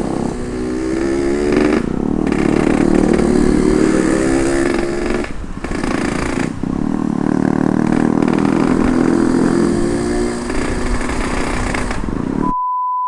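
Ported Yamaha RX-King 135cc two-stroke single-cylinder engine pulling hard under way, its pitch rising through each gear with short dips at the gear changes. Near the end the engine sound cuts out for a brief steady beep.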